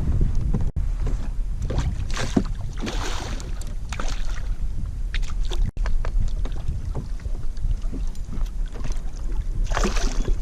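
Wind rumbling on the camera microphone aboard a kayak, with water sloshing against the hull in scattered bursts, the strongest a few seconds in and near the end.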